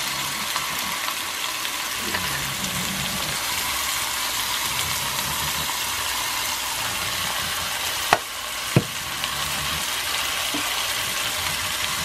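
Red snapper fillet with sliced bell peppers and onions frying in oil in a stainless steel pan, a steady sizzle. Two sharp clicks about half a second apart come roughly two-thirds of the way through.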